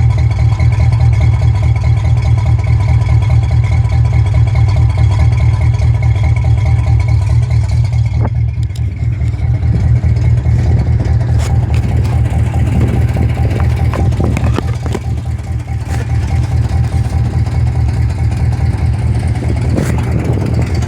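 1979 Pontiac Trans Am's V8 engine running steadily with a deep, even rumble. A few light clicks sound over it in the second half.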